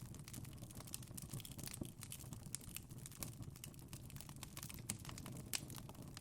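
Wood fire crackling in a fireplace: a steady low rush of flame with many small, irregular pops and snaps, one louder pop near the end.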